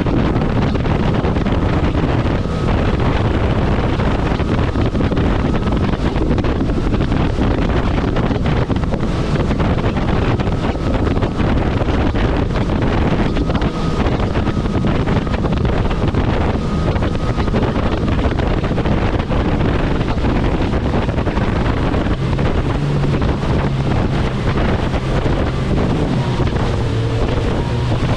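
Kawasaki personal watercraft (jet ski) running at speed over open water, with heavy wind buffeting the microphone and water rushing past, loud and steady throughout. A low engine hum comes through more clearly in the last several seconds.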